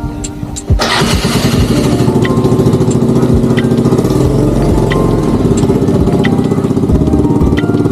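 A vehicle engine starts up under a second in and then runs steadily with a fast, even pulse.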